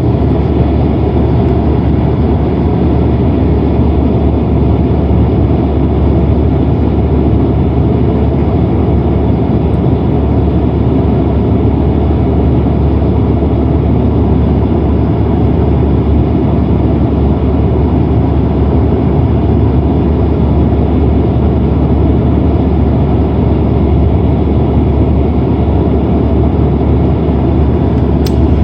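Steady cabin noise inside a Boeing 767-300ER airliner in flight: a constant deep rumble of engines and airflow, with a single brief click near the end.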